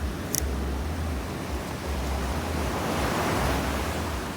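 Surf washing on the shore, one wave swelling to its loudest about three seconds in, with wind buffeting the microphone and a brief click near the start.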